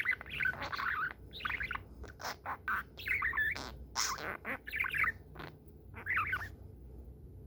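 Budgerigar chattering, with quick chirps and squawks in short bursts that stop about six and a half seconds in.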